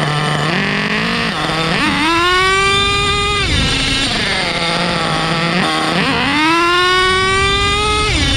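HPI Savage X4.6 nitro monster truck's small nitro engine idling, then revved up twice, each time climbing to a high pitch, holding briefly and falling back to idle.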